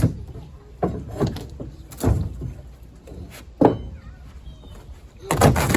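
Plywood sheet being pried up from a truck bed's wooden deck. It gives several sharp cracks and knocks about a second apart, and a longer, louder tearing stretch about five seconds in.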